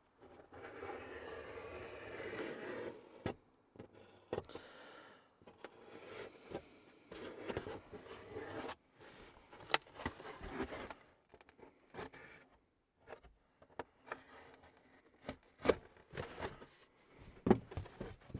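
Styrofoam board being worked by hand: stretches of scraping and rubbing broken by sharp clicks and taps, in a small room.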